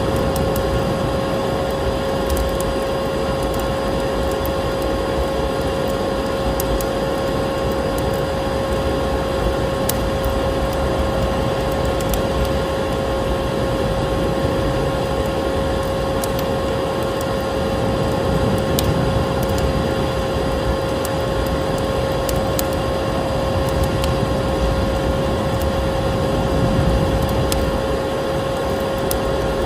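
Vacuum cleaner running steadily, its motor giving a constant whine over a loud rush of air, with a wood fire crackling in scattered sharp pops.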